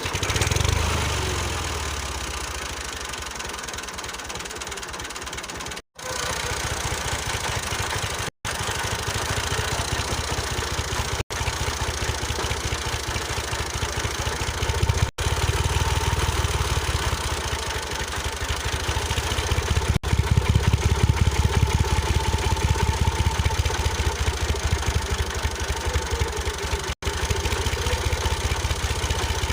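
Small engine running with a rapid, even chugging beat that swells louder in the second half; the sound drops out for an instant several times where the footage is cut.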